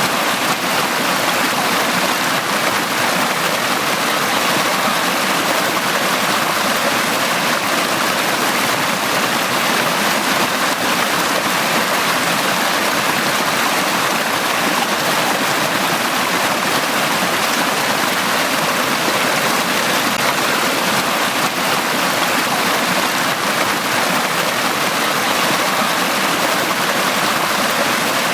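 Forest stream running over rocks, a steady splashing rush of water.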